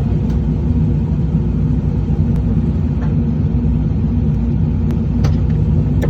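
A truck engine running steadily with a low, even hum, with a few faint ticks over it.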